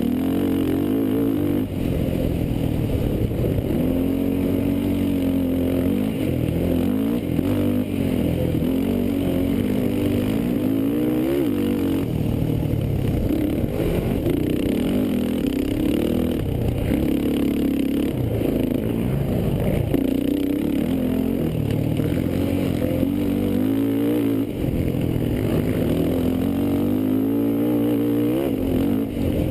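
Racing quad (ATV) engines revving up and down, their pitch rising and falling as they accelerate and back off.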